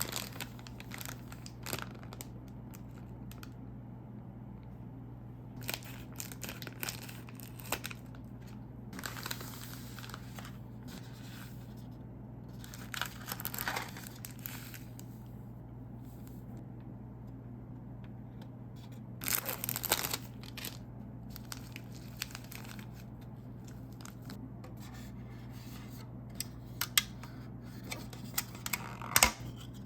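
Plastic packaging of a Japanese DIY candy kit being torn open and crinkled in scattered bursts, with a few sharp clicks near the end.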